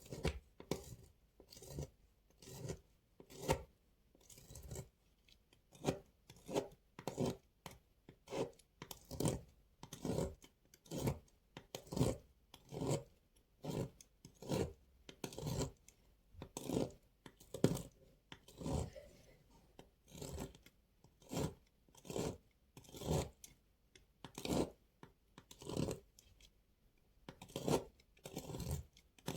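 Dry bar soap being cut, sped up to double speed: a steady run of short scraping cuts, about one and a half a second.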